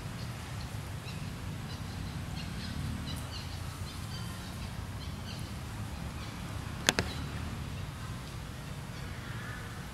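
Forest ambience: scattered faint bird chirps over a steady low rumble, broken by a sharp double click about seven seconds in.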